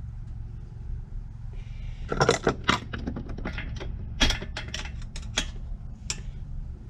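Metal parts of a small Briggs & Stratton engine clinking and knocking as it is taken apart by hand: a quick, irregular run of sharp clicks and clanks starting about two seconds in, over a steady low hum.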